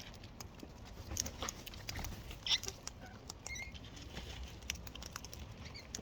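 Wild cockatoos feeding at close range: scattered irregular clicks, taps and scuffs from their beaks and feet on seed and perches, with some rustling of feathers.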